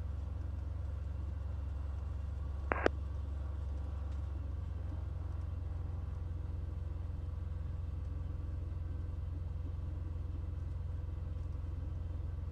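Cessna 182 Skylane's PPONK Continental O-470 engine running steadily at low power before the takeoff run, a low drone heard through the cockpit intercom. A brief click sounds about three seconds in.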